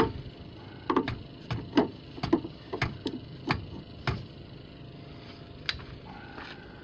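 Irregular sharp metallic knocks and clinks, about ten over several seconds, some with a short ring: tools being worked on a car wheel's lug nuts.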